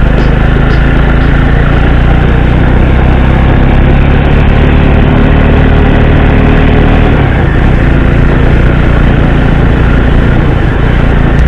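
Motorcycle engine running while riding, under a steady rush of wind and road noise; the low engine hum eases about seven seconds in.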